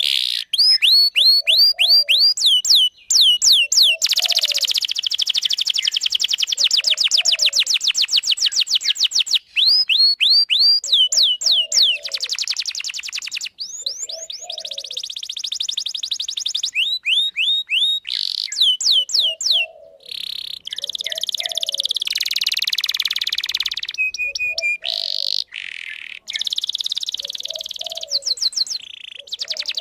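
Domestic canary singing a long, loud song of rapid trills and rolls, broken by runs of quick down-swept 'cuit cuit' chirps, with brief pauses between phrases.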